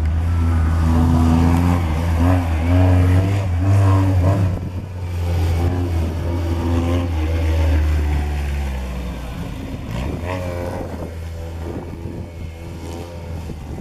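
Car engine sound, running and revving, with a steady low hum under a wavering pitch; it grows quieter over the last few seconds.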